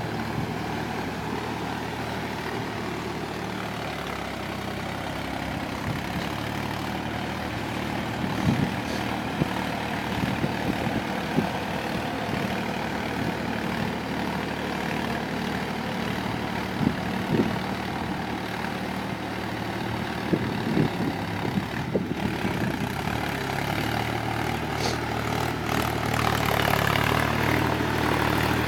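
Tractor engine running steadily, with scattered knocks and rattles through the middle, growing louder near the end.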